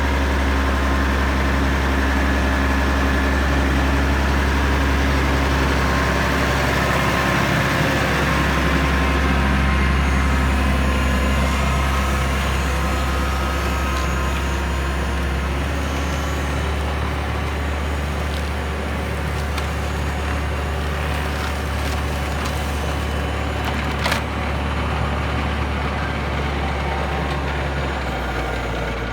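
Massey Ferguson 6290 tractor's diesel engine running steadily, with a single sharp click near the end.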